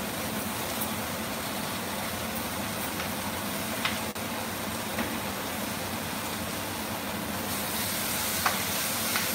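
Potatoes, bitter gourd and onion sautéing in a little oil in a wok, a steady sizzle. A few light taps come through, and the sizzle grows louder near the end as the vegetables are stirred with a wooden spatula.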